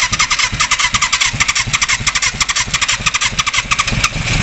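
A large engine running hard at full throttle shortly after a cold start, with a rapid, even beat of firing strokes about ten a second. Near the end the beat blurs and the low rumble grows louder.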